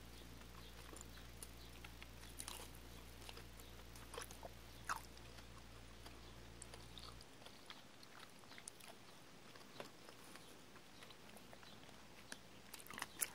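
Quiet chewing and wet mouth clicks of someone eating a sour lemon chewy candy, with scattered faint smacks. A low background hum cuts off about halfway through.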